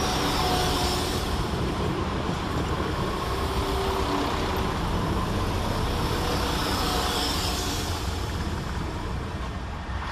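Two coupled Class 172 Turbostar diesel multiple units running into the platform: a steady rumble of diesel engines and wheels on rail with a few faint tones above it, easing off slightly near the end.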